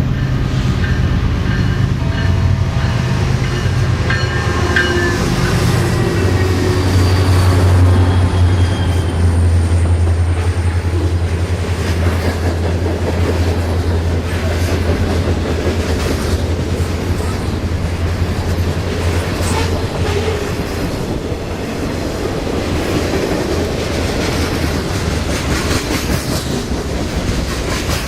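Diesel-hauled freight train passing at close range: the locomotives' engines drone heavily for the first twenty seconds or so, then give way to the rail cars' wheels clicking rhythmically over rail joints. A few thin, high wheel squeals come in the first ten seconds.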